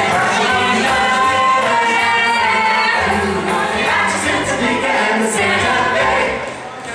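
Vocal ensemble singing a pop song in several-part harmony, dropping briefly in loudness near the end.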